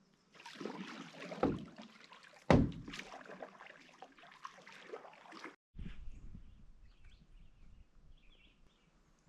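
Canoe setting off: water splashing and sloshing with two loud knocks against the boat, the second the louder. After an abrupt cut, a quieter stretch with faint bird chirps.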